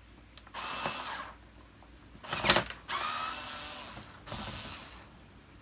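A screwdriver taking a screw out of the vacuum's plastic cover: three short bursts of whirring, with a sharp click about two and a half seconds in.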